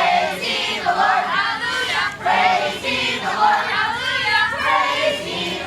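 A crowd of children's voices, loud and overlapping.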